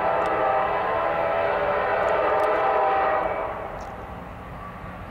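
Air horn of an approaching CSX SD50 diesel locomotive sounding one long chord of several notes at once, which fades away about three seconds in.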